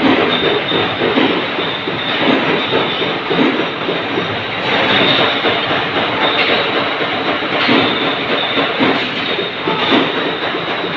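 Anchor-bolt threading machine running: a loud, continuous metallic clatter with a heavier pulse about every second or so.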